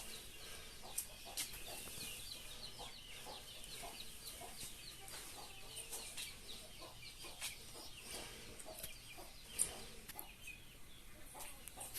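Faint bird calls: many short high chirps repeating several times a second, with a few sharp clicks, the loudest late on.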